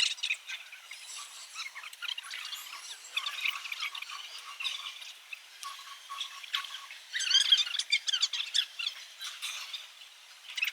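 A crowd of small birds chirping and squawking, many short high calls overlapping, busiest a little past the middle.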